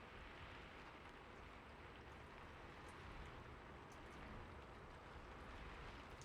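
Faint steady rain, a soft even hiss with the occasional droplet tick.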